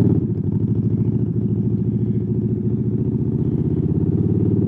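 Motorcycle engine running at low, steady revs while riding slowly; the revs ease off slightly just after the start, then hold.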